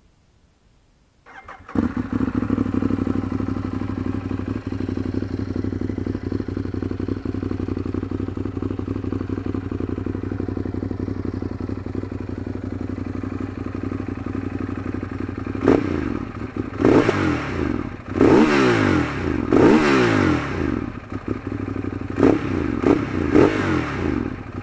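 A stock-exhaust Ducati Monster 821's 821 cc L-twin starts about one and a half seconds in and idles steadily, then is revved in a series of throttle blips, the pitch rising and falling each time, from about two-thirds of the way through.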